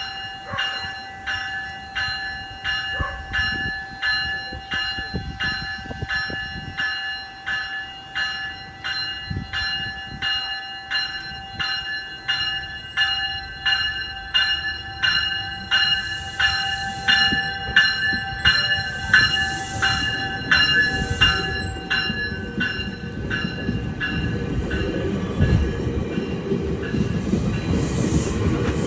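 A railway warning bell rings steadily, about one and a half strikes a second, as a GO Transit passenger train approaches. The bell stops about three quarters of the way through, and the train's low rumble swells as it comes past.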